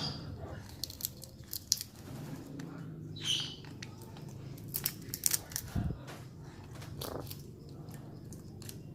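A parrot gives one short high call about three seconds in, among sharp, irregular clicks and snaps.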